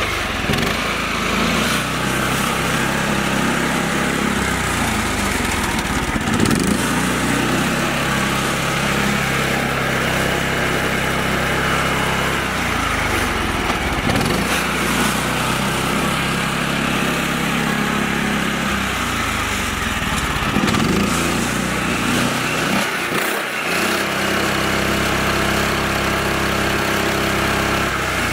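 Small engine of a mini tractor running steadily, its pitch shifting up and down a few times as the engine speed changes.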